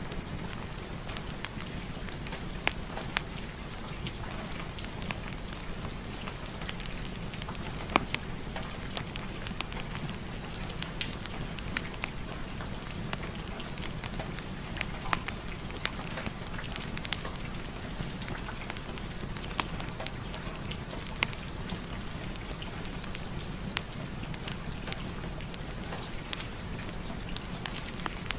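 Steady rain mixed with a crackling wood fire in a fireplace, with scattered sharp pops over an even hiss.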